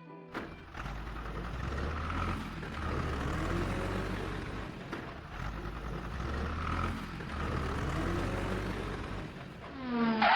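A heavy vehicle engine running with a low rumble that swells and eases every couple of seconds. Near the end a rising whine starts.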